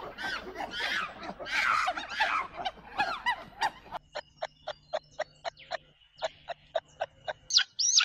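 Birds calling: a dense jumble of overlapping chirps and calls, which about halfway through gives way to one short chirp repeated about four times a second over a faint steady whistle.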